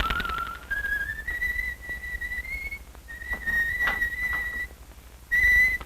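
A person whistling a slow tune: long held notes that step up and down in pitch, with a short break near the end.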